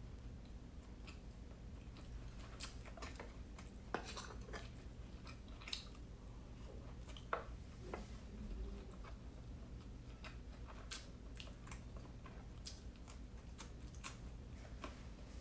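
Close-miked chewing and wet mouth sounds of someone eating steamed siomai dumplings, with scattered small clicks and smacks.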